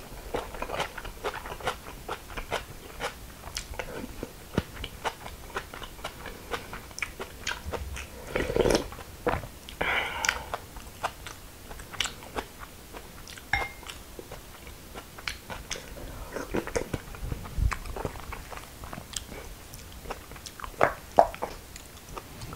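Close-miked chewing and crunching of crisp raw young radish greens (yeolmu) in bibimbap: a dense run of short, sharp crunches and mouth clicks, with louder bites about a third of the way in and again near the end.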